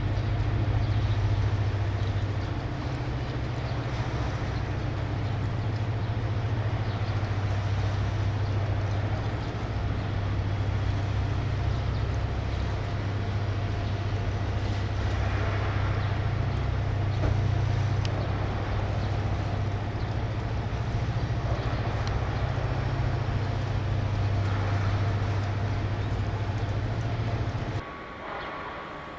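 Steady low mechanical hum, like a running engine or machinery, that cuts off abruptly near the end.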